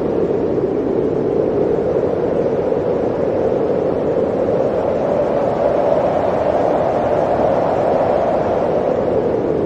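Blizzard wind blowing steadily, a continuous rushing howl that rises a little in pitch around the middle and eases back down.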